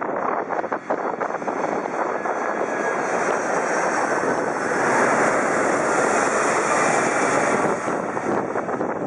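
Jet airliner passing overhead, its engine noise swelling to a peak about five seconds in and easing off near the end.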